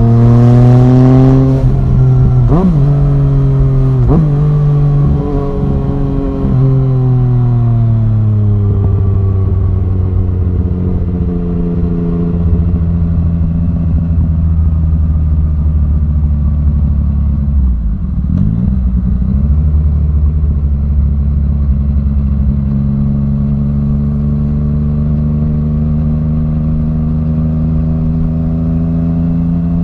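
Yamaha MT-09's three-cylinder engine breathing through an Arrow Thunder full exhaust. It revs up briefly, then the note falls over several seconds with four short sharp breaks in quick succession. It then runs at a steady pitch, with one more brief break about two-thirds of the way in.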